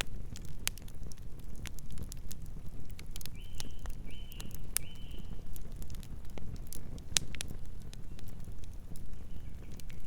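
Campfire crackling, with sharp pops scattered irregularly over a low, steady rumble of the flames. A few seconds in, three short high tones sound one after another.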